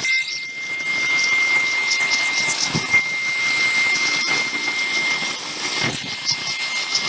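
Steady machine noise with a constant high-pitched whine running through it.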